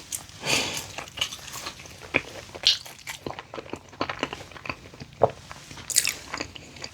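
Close-up chewing and crunching of a sweet potato snack with sour cream: a run of irregular crisp crunches, a few of them sharper and louder than the rest.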